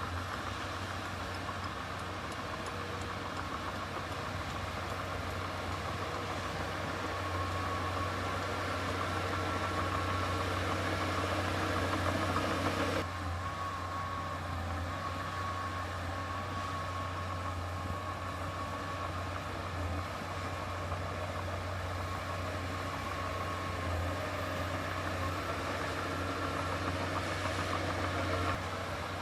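Heavy diesel engine of earthmoving equipment running steadily, with a constant low hum and a faint high whine above it. The sound changes abruptly about thirteen seconds in.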